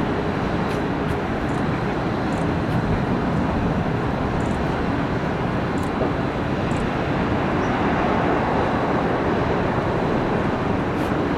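Steady, loud noise of a jet airliner's engines, swelling slightly about eight seconds in.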